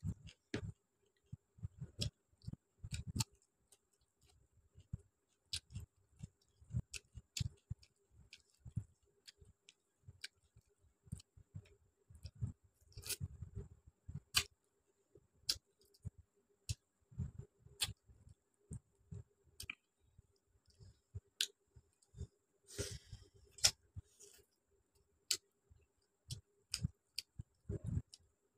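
Close-miked chewing and mouth sounds of someone eating rice and chicken curry by hand: irregular sharp lip and tongue smacks over low, soft chewing.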